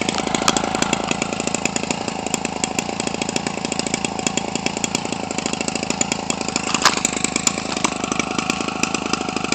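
Homelite 25cc two-stroke trimmer engine, converted for a giant-scale RC airplane and exhausting through a gutted muffler with a pipe welded on, running steadily with a rapid, even firing beat.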